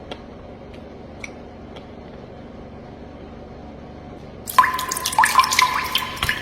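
Spoon and ice clinking in a bowl of fruit and coconut water: a few soft drip-like ticks, then a quick run of clinks with a ringing tone from about four and a half seconds in.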